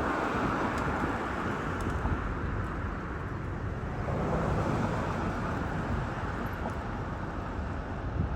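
Steady road traffic noise, vehicles passing with a low rumble, with wind buffeting the microphone.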